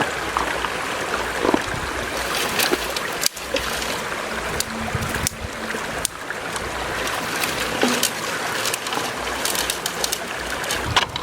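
Stream water rushing steadily, with scattered splashes and sharp clicks.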